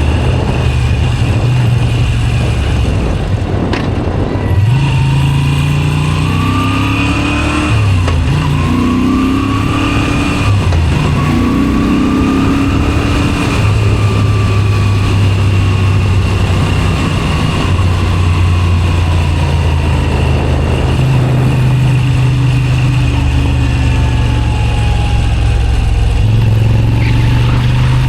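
Moto Guzzi V7 Special 850's air-cooled transverse V-twin running through a Zard aftermarket exhaust while riding. In the first half it pulls up through the gears, its pitch rising and dropping back at each of about three upshifts, then it holds a steady cruise.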